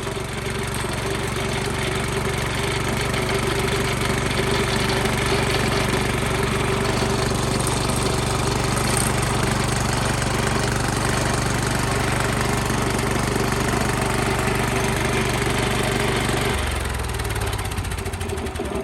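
Honda GX340 single-cylinder petrol engine running steadily at speed, driving a Smith concrete scarifier whose cutter drum chatters on the concrete floor. About sixteen seconds in, the engine note drops and the cutting noise eases as it throttles back.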